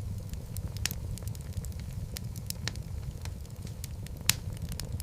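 Wood logs burning in a fireplace: a steady low rumble of flame with irregular sharp crackles and pops, one louder pop about four seconds in.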